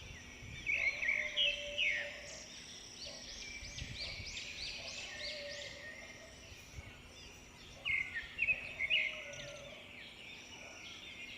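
Many small birds chirping and chattering at once in a dense, overlapping chorus. Louder bursts of calls come about a second in and again near eight seconds.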